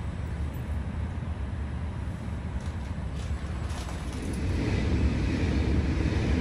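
Train running along the line, heard from inside a passenger carriage: a steady low rumble of wheels on rail, growing louder and brighter about four and a half seconds in.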